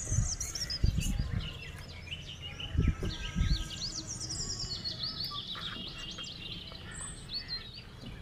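Birds chirping, a steady run of quick high notes that slide up and down. A few dull low thuds come in the first few seconds, twice loud enough to stand out.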